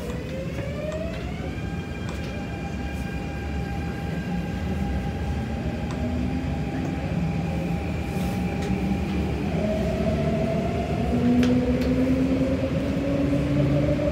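Adtranz-CAF EMU metro train running, heard from inside the car. The traction motors' whine rises in pitch over the first couple of seconds and then holds steady. From about ten seconds in, a second, lower whine slowly climbs, all over the steady rumble of the train on the track.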